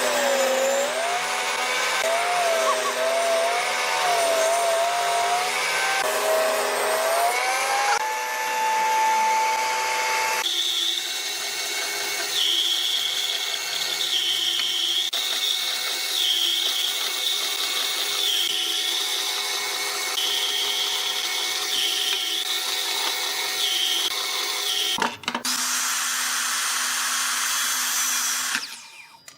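Electric power tools running on wood, in several short cut-together stretches: a motor whine wavers in pitch, then holds a steady tone, then a higher wavering whine, each change sudden.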